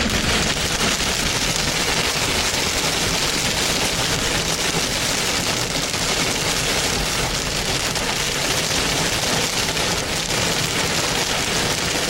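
Heavy rain falling steadily, a dense patter of many drops striking a hard surface.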